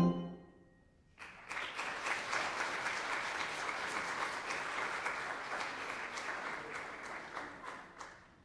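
Audience applauding for about seven seconds, starting about a second in and tapering off near the end. Just before it, the last struck chord of a bell piece rings and dies away.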